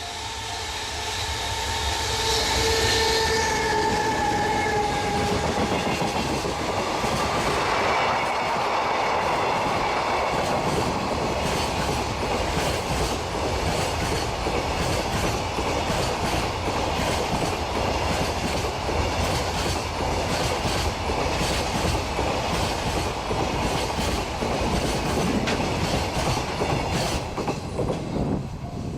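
A freight train hauled by a JR Freight EH500 electric locomotive passes close by. A whine falls slightly in pitch over the first few seconds as the locomotive goes by. After it comes a long run of freight wagons with a steady clickety-clack of wheels over rail joints, which drops off at the very end.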